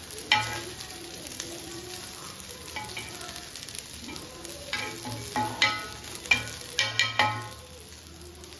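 Colocasia (taro root) slices sizzling in oil on an iron dosa griddle, with a steel spatula scraping and clinking against the griddle: once just after the start, then several quick strokes in the second half.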